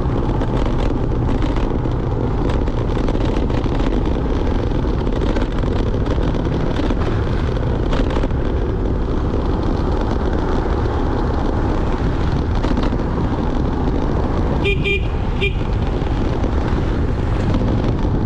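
Steady wind and road noise on the microphone of a moving scooter. A vehicle horn gives three short beeps about fifteen seconds in.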